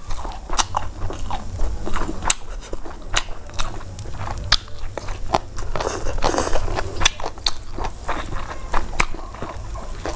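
Close-miked eating: wet chewing and crunching of a mouthful of rice and thangjing singju, many small sharp mouth clicks and crunches, with fingers mixing rice on a steel plate around the middle.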